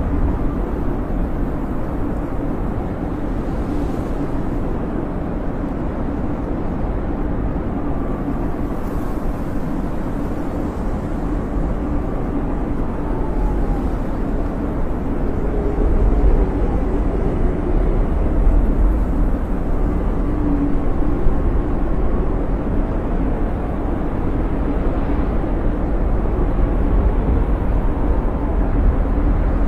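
Snowstorm wind blowing in a steady low rush, with faint whistling tones that rise and fall.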